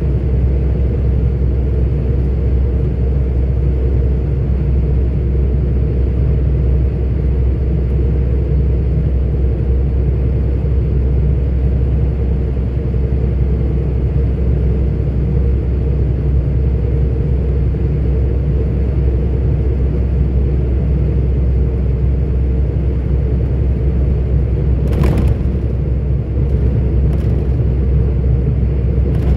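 A 44-ton articulated truck being driven: a steady low rumble of engine and road noise. A few short clicks come near the end.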